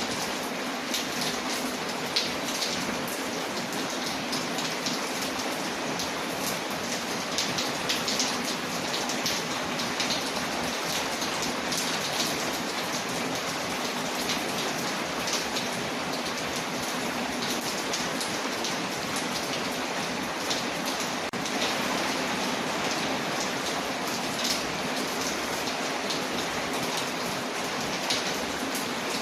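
Steady rain falling on a window, layered with a crackling fireplace fire; an even hiss dotted all through with small sharp ticks.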